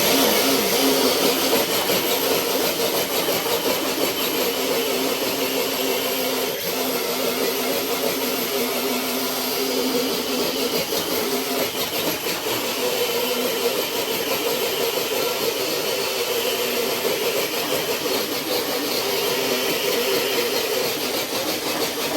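Scale RC crawler truck's electric motor and geared drivetrain running steadily under heavy load as it drags a weighted pull load, with a steady whine over the noise of the gears and tyres.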